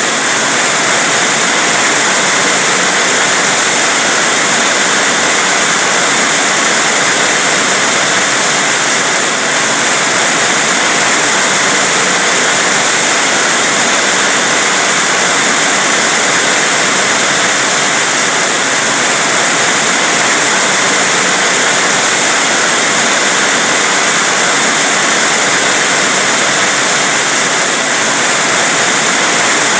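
Heavy rain falling, a loud, steady hiss with no breaks.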